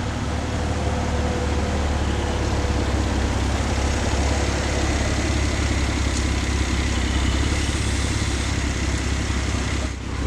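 A car engine running steadily at low revs, with a deep, even rumble.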